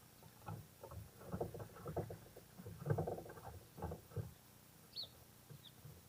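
Birds pecking and hopping on a wooden railing strewn with seed: a run of irregular close taps and knocks on wood, then two short high chirps falling in pitch near the end.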